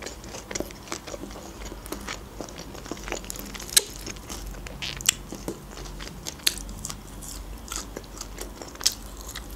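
A person chewing a mouthful of shawarma close to the microphone, with irregular wet clicks and crunches.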